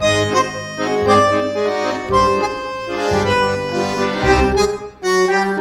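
Instrumental music led by an accordion-type free-reed instrument, playing sustained chords over bass notes in short phrases, with a brief break about five seconds in.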